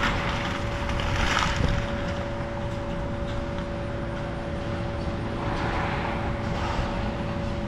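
Excavator running with a steady whine over a low rumble, while wood and debris of the house crunch and splinter under it, in bursts about a second and a half in and again near the end.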